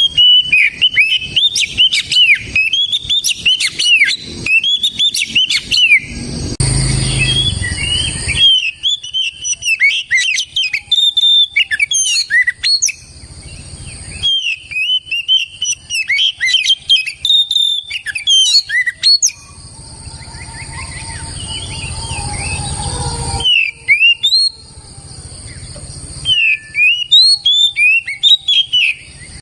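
Oriental magpie-robin singing in full song: fast runs of loud, sweeping whistled and chirping notes in phrases broken by short pauses, with a steady high hiss behind parts of it.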